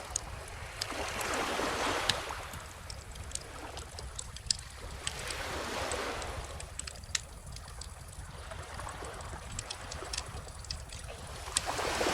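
Small ocean waves washing in and drawing back, swelling three times, while a wood bonfire crackles and pops with sharp snaps throughout.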